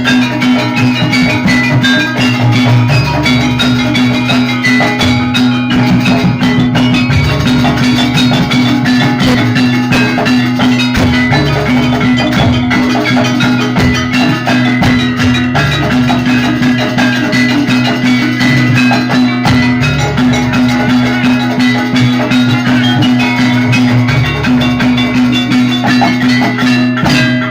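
Javanese gamelan music for a jaranan dance: struck metallophones ringing over percussion and sustained low tones, playing continuously.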